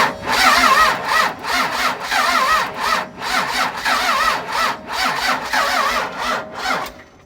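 A 5.9-litre 24-valve Cummins inline-six diesel being cranked by its starter without firing. It turns over slowly in an uneven beat of about two compression pulses a second, with a wavering whine, and stops about seven seconds in. The slow cranking comes from too little battery power: undersized batteries helped by a jump box.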